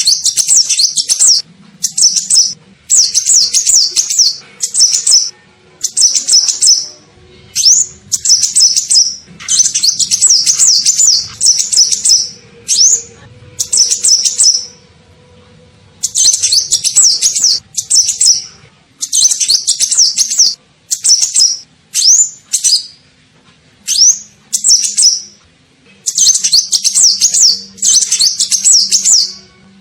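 Sunbird ('kolibri ninja') song used as a bird-catching lure call: rapid, high, thin twittering phrases of quick up-and-down notes, each lasting about half a second to two seconds and repeated after short pauses.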